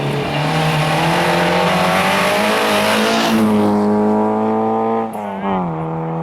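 Race car engine at high revs passing close, its note climbing steadily. About five seconds in the pitch drops, then holds steady as the car pulls away.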